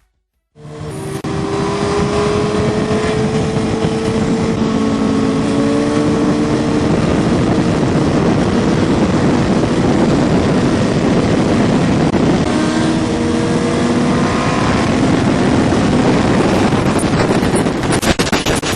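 Sport motorcycle engines running together, several engine notes drifting slowly up and down in pitch, under heavy wind noise on the microphone. The sound starts abruptly about half a second in and breaks up into choppy crackle near the end.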